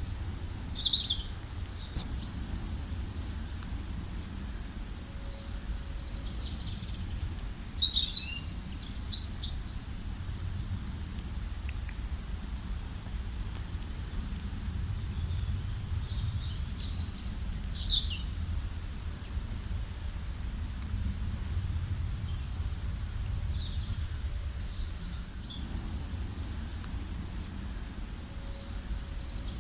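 Songbirds singing in short, high chirping phrases, with the loudest bursts right at the start and around eight, seventeen and twenty-five seconds in, over a steady low background rumble.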